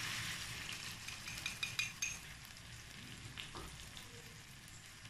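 Chicken pieces frying in ghee sizzle as beaten eggs are poured over them in the pan; the sizzle gradually fades, with a few light clicks about one to two seconds in.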